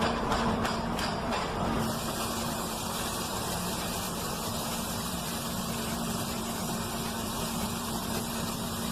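A vehicle engine running steadily with a low hum, with a few light clicks in the first second or so.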